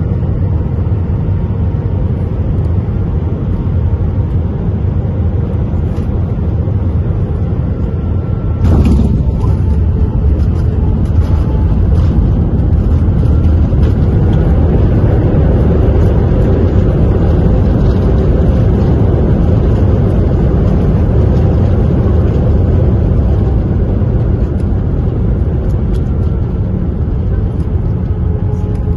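Loud, steady low rumble of an Airbus A320-232's IAE V2500 engines and airflow, heard from inside the cabin during landing. About nine seconds in there is a thump, likely the main wheels touching down, and after it the rumble of the landing roll is louder, easing off slightly later on.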